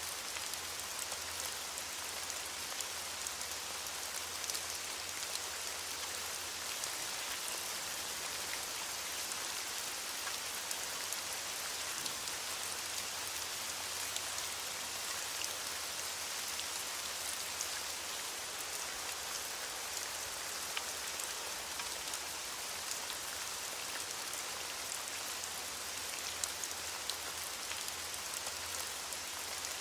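Steady rainstorm: an even hiss of rain with scattered sharp drop ticks.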